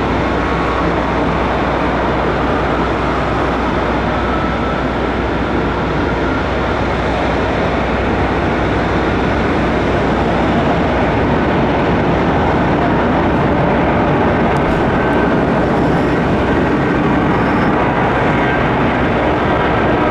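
Airbus A330-200 twin turbofan jet engines running at takeoff thrust: a loud, steady roar that grows a little louder about halfway, with a faint whine above it.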